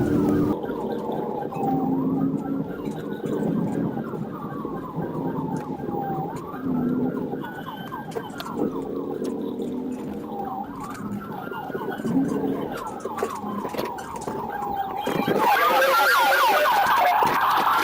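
Police car siren on a wail setting, its pitch rising and falling slowly about every four seconds, over vehicle road noise. A little before the end a louder rushing noise comes in under it.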